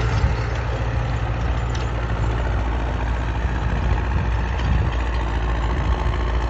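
MTZ tractor's swapped-in MAN 4.6-litre turbo diesel engine running steadily while pulling a plough.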